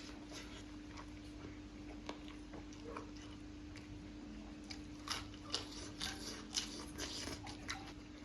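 Eating and chewing noises: a run of small clicks and crunches, thickest in the second half, over a steady low hum.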